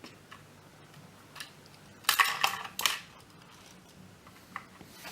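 Small plastic Lego pieces clicking and clattering as they are handled. There are a few light clicks at first, a burst of rattling about two seconds in, and another shortly before three seconds.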